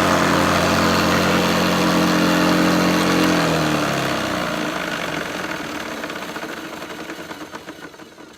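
Hoover Senior Ranger U4002 upright vacuum cleaner's motor running at full speed, then switched off about three seconds in and winding down, its hum falling in pitch and fading away.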